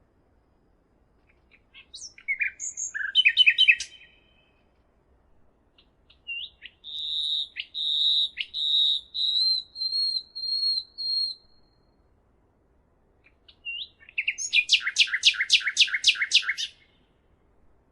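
A songbird singing in three separate phrases with pauses between them. There is a short burst of chirps about two seconds in, then a long run of quick notes held at one high pitch for about five seconds, then near the end a fast series of about ten notes, each dropping steeply in pitch.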